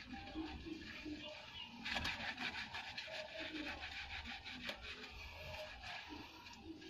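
Rapid, irregular scrubbing strokes of hand cleaning with soap, densest about two to three and a half seconds in.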